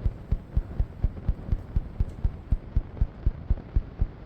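Washing machine with an unevenly balanced load knocking about five times a second, a fast, even, low beat.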